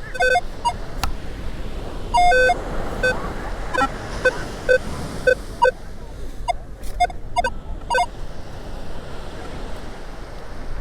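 Metal detector's target tones: a run of short beeps at several different pitches, some single and some in quick pairs, as the coil passes over buried metal, stopping about eight seconds in. Ocean surf washing steadily underneath.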